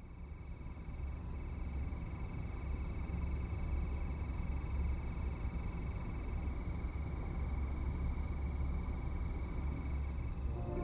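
A steady, high-pitched chorus of insects, crickets or similar, trilling over a low rumble, fading in over the first second or two.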